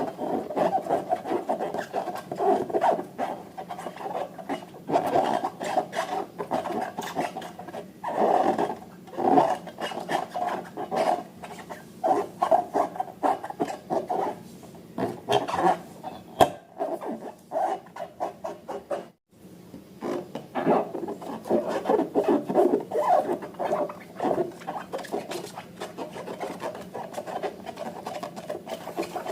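Slime being squeezed and kneaded by hand, making irregular sticky squishing with dense crackling clicks, broken by a brief silence about two-thirds of the way through.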